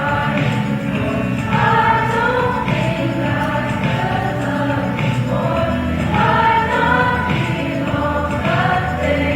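High school choir singing live, several voices together in sustained phrases over a steady low accompaniment.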